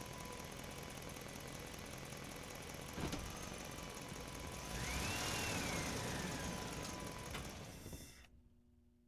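An engine running steadily, with a sharp knock about three seconds in and a whine that rises and falls near the middle. The sound cuts off abruptly about eight seconds in.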